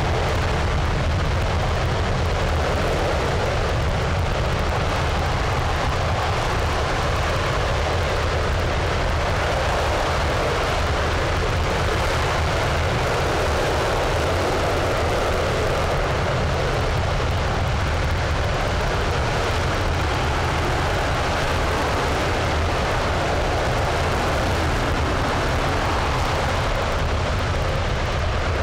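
RS-25 liquid-hydrogen/liquid-oxygen rocket engine firing steadily in a static hot-fire test: a continuous, even rush of exhaust noise that holds the same level throughout.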